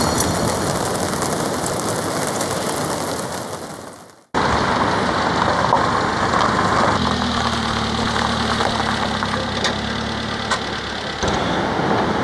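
Heavy rain beating on a tarp, fading out about four seconds in and coming back abruptly a moment later. A few seconds after it returns, the low steady hum of an idling engine sits under the rain for several seconds.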